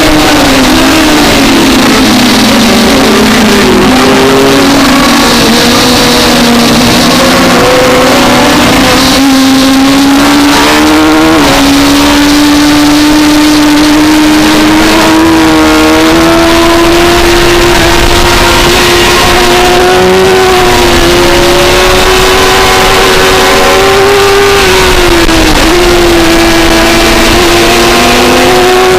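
Onboard sound of a 2004 Suzuki GSX-R600's inline-four engine at racing revs. The pitch is lower for the first several seconds, steps up twice around ten seconds in, then holds high and steady, with a brief dip and climb near the end.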